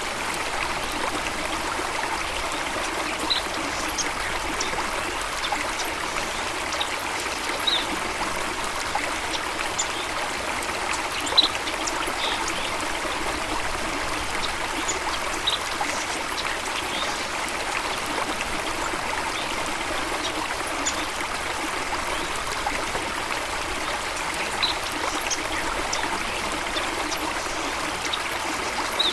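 Steady flowing water of a stream, with a few short high-pitched sounds scattered through it.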